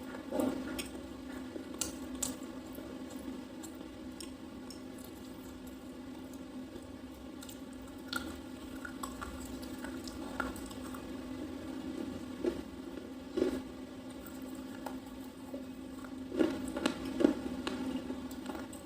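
A person chewing a soft slate-pencil bar with the mouth, irregular crunches every few seconds over a steady low hum.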